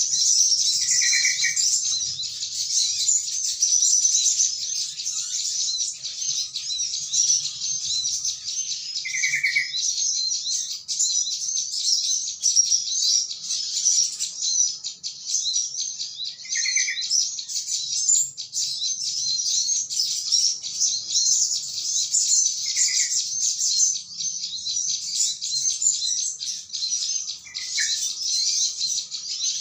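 Dense, continuous high twittering of a flock of small birds, with a short, lower-pitched call from a yellow-vented bulbul (trucukan) breaking in about every six seconds, five times in all. It is a bird-trapping lure call.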